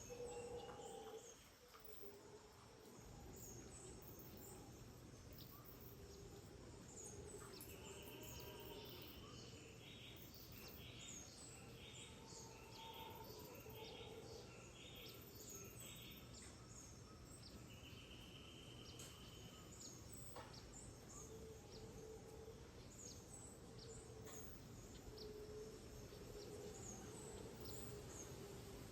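Faint rainforest dawn chorus: several birds call with short, repeated high chirps and brief buzzy trills, and insects sound over a steady background hiss.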